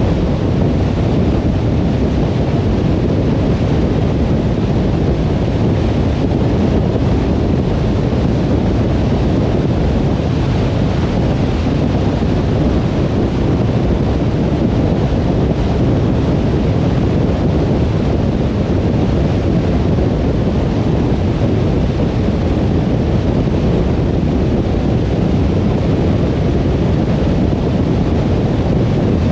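Steady low rumble of a car driving on a motorway: road and tyre noise mixed with wind, even throughout with no sudden events.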